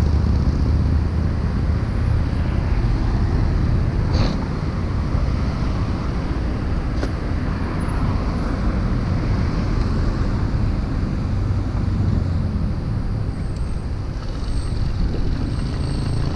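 Steady low rumble of road traffic and riding noise, with two brief sharp clicks about four and seven seconds in.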